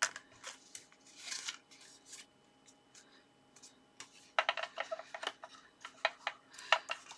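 Card pieces being handled, pressed and lined up together: faint scattered rustles, then a denser run of quick paper crinkles and light taps from about four seconds in.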